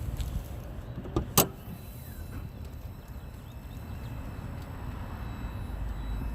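Supercharged 6.2-litre Hemi V8 of a 2015 Hellcat idling through a Borla exhaust with a steady low rumble. Two sharp clicks come about a second in.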